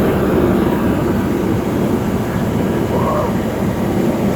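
Heavy truck engine running steadily and loudly, with a dense low sound that holds even throughout.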